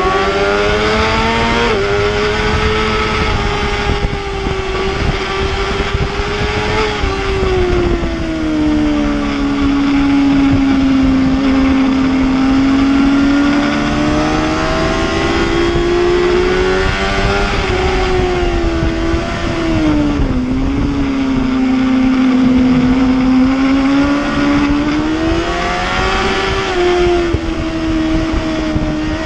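Superbike racing motorcycle engine running hard at high revs, its pitch rising and falling slowly as the throttle opens and closes, over a steady rushing noise.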